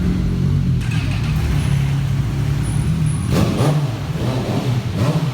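Motor vehicle engine running at low revs, its pitch shifting slightly now and then.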